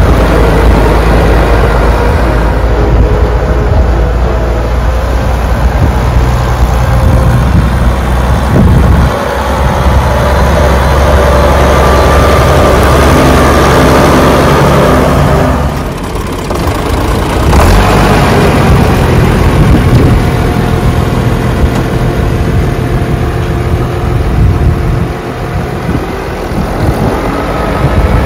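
Turbocharged International 976 tractor engine running loudly, its note shifting several times as the engine speed changes.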